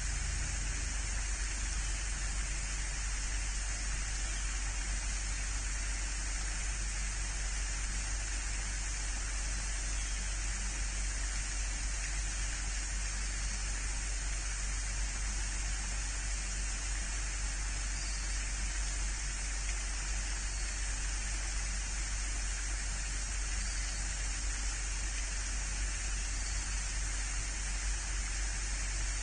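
Steady, even hiss with a constant low hum underneath and no distinct events.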